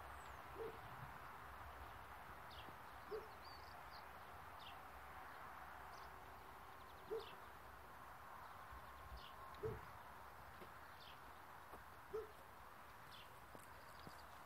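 Quiet outdoor background with birds calling: a short, low note repeating about every two and a half seconds, and thin high chirps in between.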